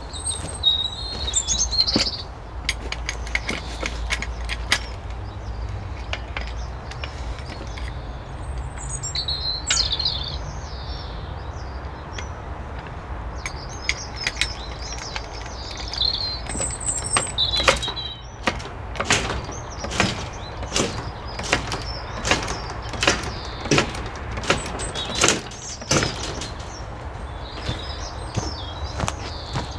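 Small birds chirping and twittering now and then, over a low rumble. About two-thirds of the way in comes a run of sharp knocks, roughly one a second for several seconds.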